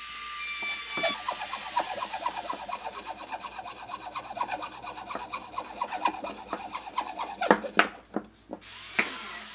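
Quick, even rasping strokes of a hand tool working wood, about four a second, giving way near the end to a few sharp knocks.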